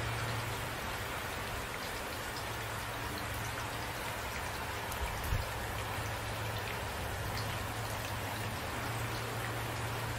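Steady rain falling, with individual drops ticking over the even hiss and a constant low rumble underneath. A brief dull thump comes about five seconds in.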